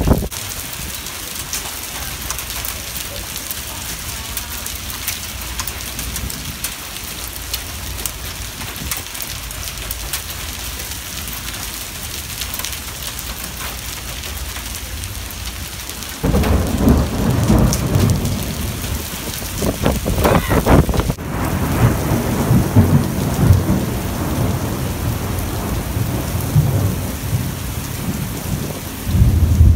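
Heavy rain with dime-sized hail hitting wet pavement: a steady hiss with many small sharp ticks. About halfway through it changes to a much louder, uneven low rumble of gusty storm wind and downpour that rises and falls.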